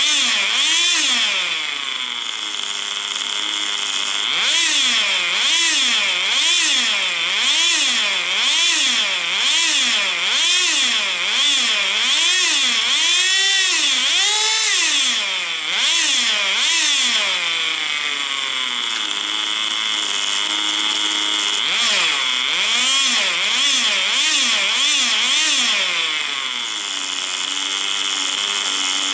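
Tamiya TGS 1/10-scale nitro RC car engine running hard, its high buzzing note rising and falling over and over as the car accelerates and slows around the track. The note holds steadier for a few seconds past the middle and again near the end.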